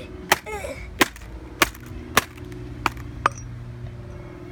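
Six sharp blows striking a MacBook's keyboard, roughly one every half second, to knock out keys that won't come loose; they stop a little after three seconds in.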